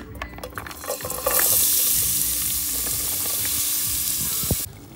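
A few light clinks as grated carrot is tipped from a glass bowl into a hot pot, then a loud, steady sizzle of the vegetables frying in oil, which cuts off suddenly near the end.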